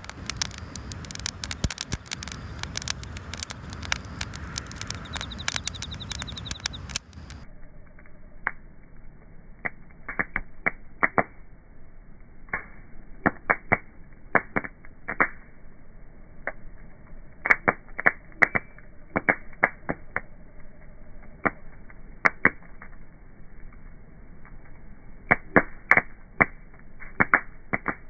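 Wood bonfire crackling and popping. For the first seven seconds it is dense crackling with a hiss; then the fire is heard slowed down, duller, with scattered sharp pops, sometimes several in quick succession.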